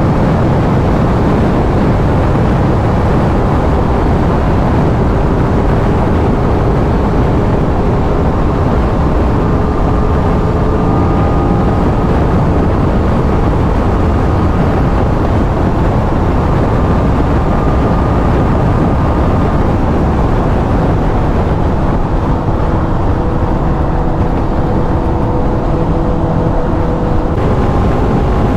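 Aprilia RS 660's parallel-twin engine through its stock exhaust, holding a steady highway cruise with only slow, slight changes in pitch. A heavy, steady rush of wind noise on the microphone runs under it.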